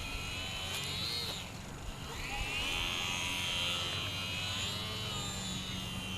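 HobbyZone Carbon Cub S2 RC airplane's electric motor and propeller whining in flight, the pitch rising and falling with the throttle. The whine rises about a second in, fades near a second and a half, then comes back stronger and holds for a few seconds before easing off.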